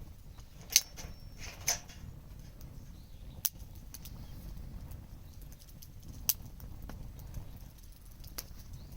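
Outdoor bonfire of burning wood crackling over a low steady rumble, with many small ticks and several loud sharp pops.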